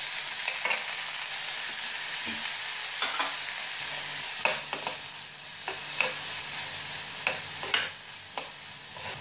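Chopped tomato and onion sizzling in hot oil in a steel kadhai, stirred with a metal spatula that scrapes and clicks against the pan now and then.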